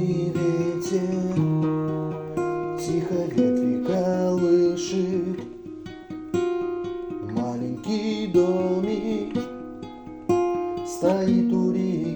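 Acoustic guitar playing the introduction to a slow ballad, with chords held and changing every second or two.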